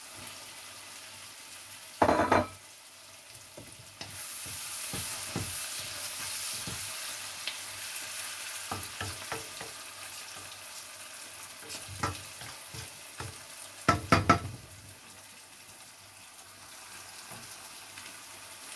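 Chopped tomatoes tipped from a plate into a wok of frying onions, with a clatter about two seconds in. The sizzle grows louder a couple of seconds later, and a wooden spoon stirs and scrapes the wok, with a cluster of loud knocks about fourteen seconds in.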